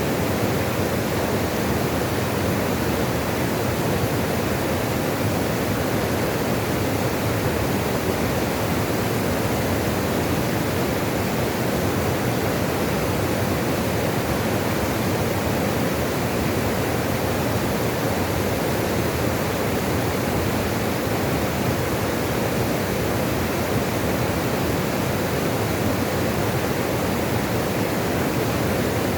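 Steady rush of running water, even and unbroken, with no separate splashes or drips standing out.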